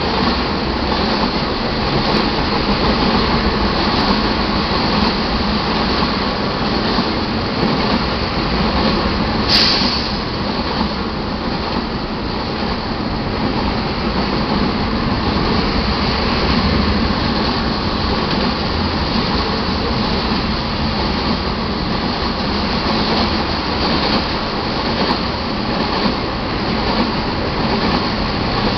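Crude oil tank cars of a freight train rolling past: a steady rumble and clatter of steel wheels on the rails, with one sharp click about ten seconds in.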